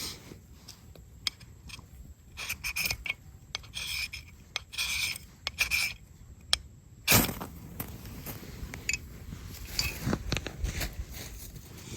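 A series of short scraping strokes with light clicks and clinks, like metal or wooden camp gear being handled, and one louder knock about seven seconds in.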